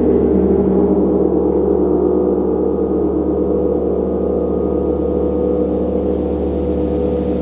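Large gong ringing in a sustained, loud wash of many overlapping overtones with a slow pulsing shimmer; the highest overtones fade about a second in while the deep hum and mid tones hold steady.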